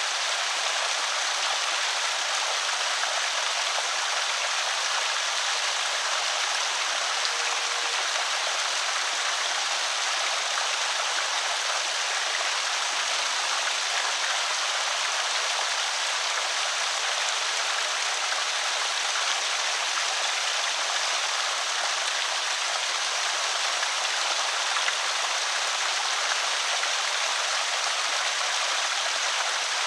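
Water pouring steadily over a small creek spillway, a constant splashing rush with no pauses or changes.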